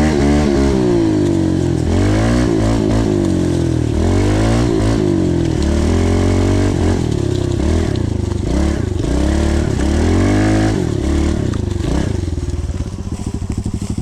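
Pit bike engine being ridden, its pitch rising and falling over and over as the throttle is worked. About a second before the end it drops to a lower, steady running.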